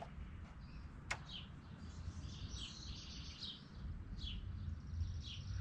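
Small birds chirping in the background, short falling chirps every second or so over a faint low rumble, with one sharp click about a second in.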